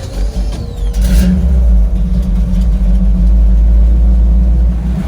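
Chevy 350 small-block V8 with headers running. It gets clearly louder about a second in, as if revved, and holds a steady, deep rumble before dropping back near the end.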